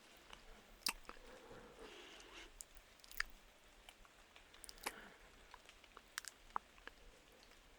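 Quiet close-miked mouth sounds typical of ASMR kissing: a handful of spaced-out wet lip clicks and smacks, with a soft breath about two seconds in.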